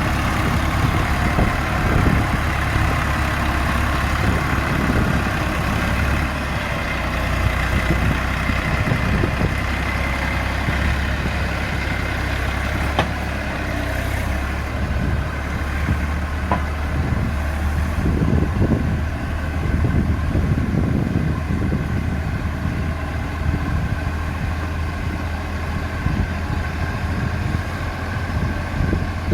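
Eicher tractor's diesel engine running steadily under load as the tractor pulls out of a river, its low note swelling and easing now and then.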